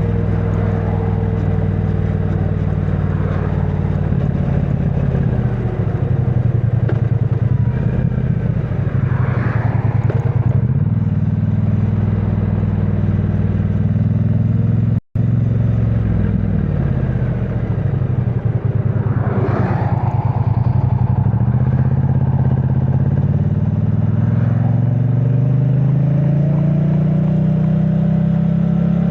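A 2022 Triumph Bonneville T100's 900cc parallel-twin engine running through its stock exhaust on the move. Its pitch falls as the bike slows partway through, the sound cuts out for an instant about halfway, and then it pulls up through the revs again, twice. The sound is somewhat muffled, picked up by a microphone in the rider's backpack.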